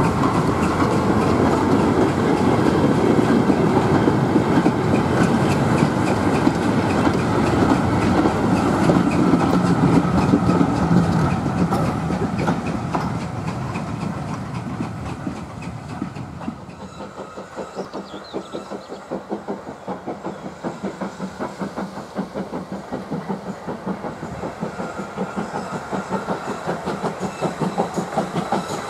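Train of four-wheeled goods wagons rolling past close by, wheels clattering over the rail joints, the sound fading as the train draws away. Later a distant steam locomotive is heard working, its exhaust giving a quieter, regular beat.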